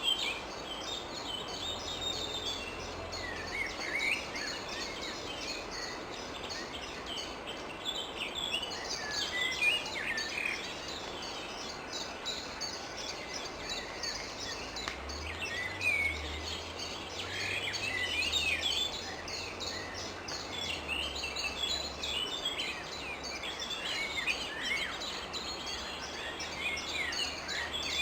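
Rose-ringed parakeets calling: a dense run of short, overlapping high calls that carries on throughout, over a steady background hum.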